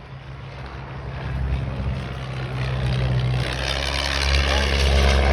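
Piston-engined propeller aircraft making a low pass, its engine drone growing steadily louder as it approaches.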